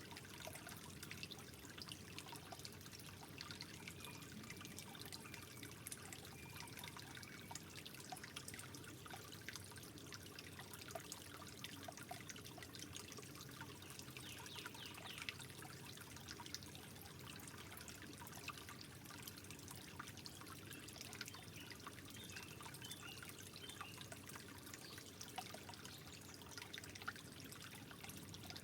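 Gentle trickling water, a steady soft babble dotted with many small drips and splashes.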